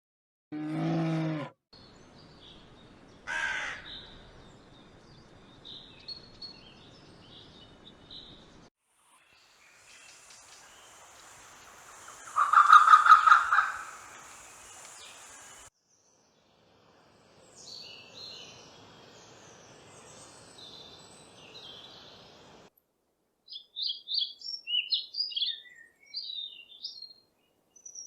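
A string of animal calls in the open, cut into short segments. The loudest is a harsh, pulsing call about halfway through, and small birds chirp rapidly near the end.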